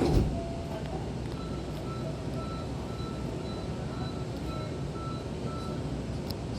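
Hankyu train's sliding doors thudding shut, followed about a second later by a string of short electronic beeps, two or three a second, for about four seconds, over the steady rumble of the train.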